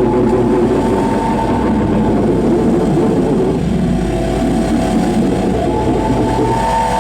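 Live harsh noise music: a loud, dense, grinding wall of distorted noise, heaviest in the low-mids. A thin steady high tone rides on top about a second in and again near the end.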